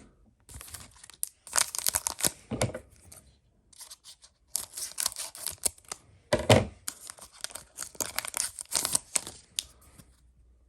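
A trading-card pack wrapper being torn open and crinkled by hand, in two long runs of crackling rustle, the loudest about six and a half seconds in.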